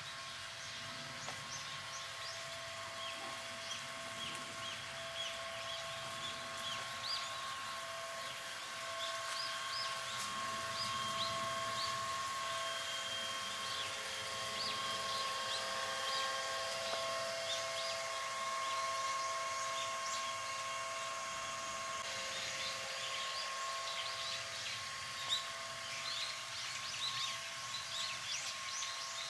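Many small birds chirping, short high calls scattered throughout and busier in the second half, over a steady faint tone.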